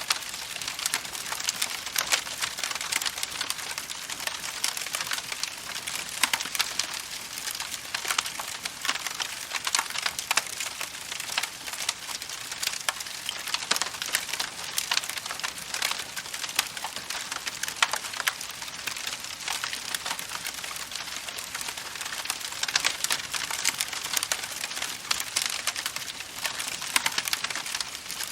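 Campfire crackling steadily: a dense stream of small snaps and pops, with the odd louder pop.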